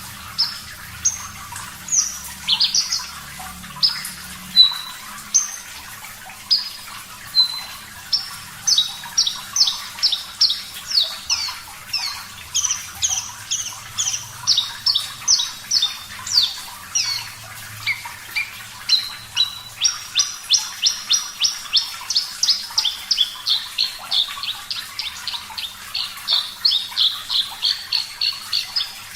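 Javan bush lark (branjangan, Mirafra javanica parva) singing: sharp single notes about once a second, then from about eight seconds in a fast run of rapid notes, about four a second, that carries on. A faint background of running water underlies the song.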